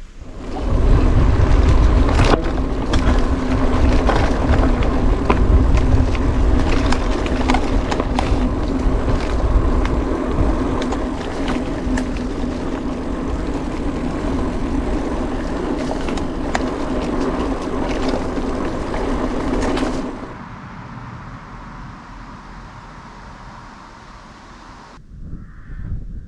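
Mountain bike riding over a rough dirt track: tyre noise with rattling clicks and wind buffeting the microphone, dropping off sharply about 20 seconds in.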